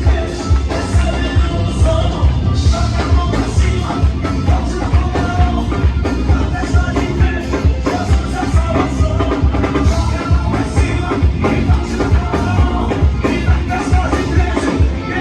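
Live band music with a strong, steady drum and bass beat.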